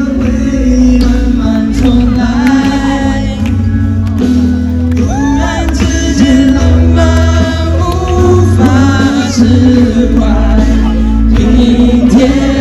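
Loud pop song with singing.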